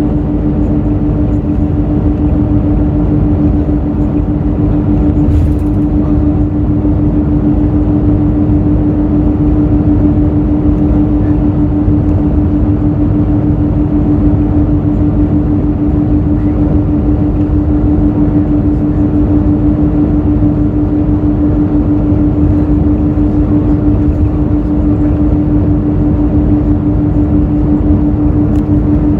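Hino J08E-VD inline-six diesel of a Hino RN8JSVU bus running at a steady speed, heard from inside the bus over road noise. It is a constant, even drone with one strong steady hum and no change in pitch.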